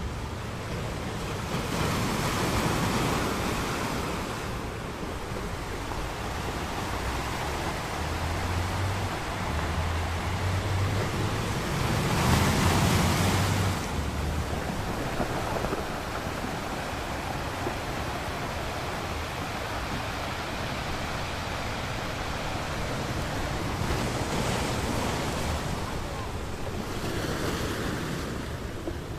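Ocean waves breaking on a beach: a continuous wash of surf that swells as each wave breaks, the biggest about a third of the way through, with smaller surges near the start and near the end.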